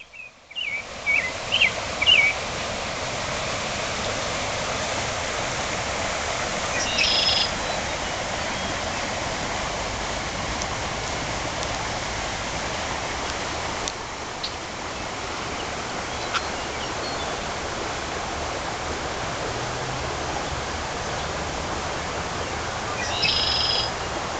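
Harpeth River floodwater flowing steadily, a constant hiss of moving water. Birds call over it: a few quick chirps in the first two seconds, then a short call about seven seconds in and again near the end.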